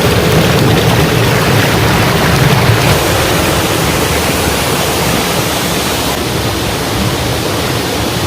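Waterfall, its falling water making a loud, steady rushing noise.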